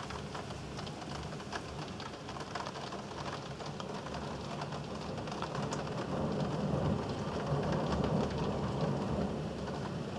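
Heavy rain falling with a patter of drops, and a low rumble of thunder that swells about six seconds in and then eases off.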